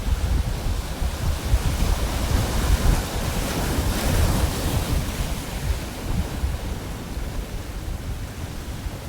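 Pacific Ocean waves breaking and washing on a beach, with a broad wash swelling about halfway through, and wind buffeting the microphone with low rumbles.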